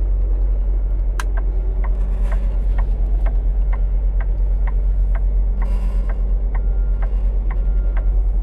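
Semi truck's diesel engine idling, heard from inside the cab, with steady clicking about twice a second starting about a second in. There are two short hisses, the second near the middle.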